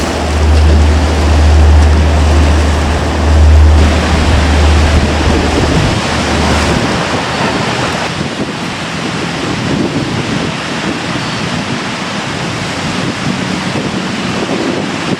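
Surf of a stormy sea breaking in a steady roar under strong wind. Wind rumbles on the microphone for about the first seven seconds, then drops away.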